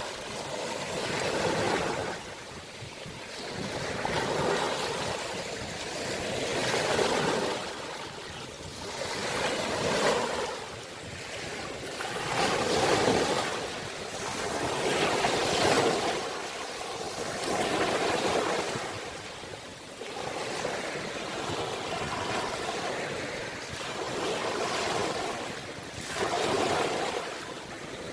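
Ocean waves breaking and washing in, a steady rush of surf that swells and fades every few seconds.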